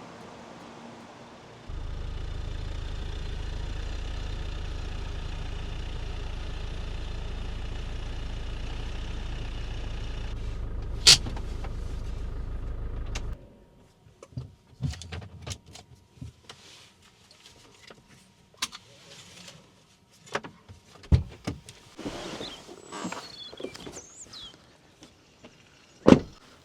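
A motorhome engine running steadily, then cut off about halfway through. After that come scattered clicks and knocks, and a sharp knock near the end.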